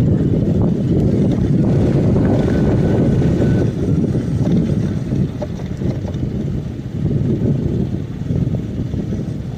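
Loud, gusting wind rumble buffeting the microphone, as when riding.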